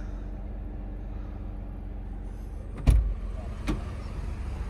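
Toyota Yaris Cross engine idling, a steady low hum heard inside the cabin. About three seconds in comes a sharp knock, the loudest sound, and a smaller knock under a second later.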